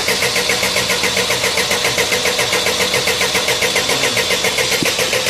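Euro 4 engine turning over on its starter with an even, rapid pulse of about seven beats a second: a hard-starting engine being cranked after an injector replacement.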